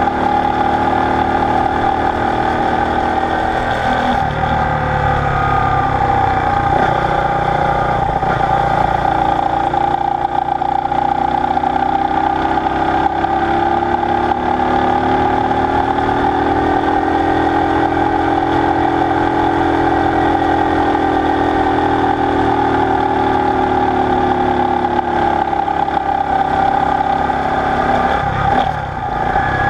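Honda SL90's single-cylinder four-stroke engine running while riding, its pitch slowly rising and then falling through the middle stretch. There is a short drop in level near the end.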